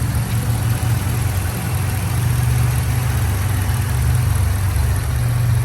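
Ford 7.3L "Godzilla" gas V8 of a 2022 F-250 Super Duty running steadily with an even low rumble.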